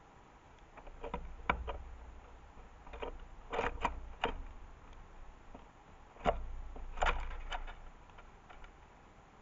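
Irregular taps and knocks from a house sparrow pecking and shifting on the bird feeder close to the camera. The sharp clicks come in small clusters, each with a dull thump beneath it.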